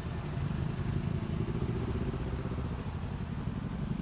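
Honda ADV 150 scooter's single-cylinder engine running steadily under way, at an even pitch.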